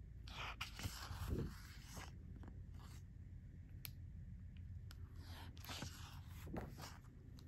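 Faint paper rustling and scraping in several separate soft strokes, as the book's pages are handled.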